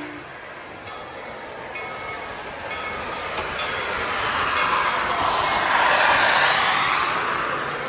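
Steam locomotive passing close by. Its whistle cuts off at the start, then a hissing rush of steam and running gear swells to a peak about six seconds in and fades away.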